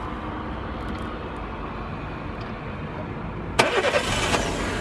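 Car engine cranked and starting for a jump-start, its jumper cables clipped to a car with a flat battery; it fires up suddenly about three and a half seconds in and keeps running. Before that there is only a low steady background noise.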